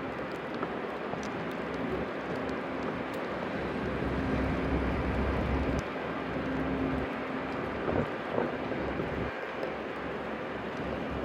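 Steady city street ambience: a low rumble of traffic with a faint steady hum, and a couple of short louder sounds about eight seconds in.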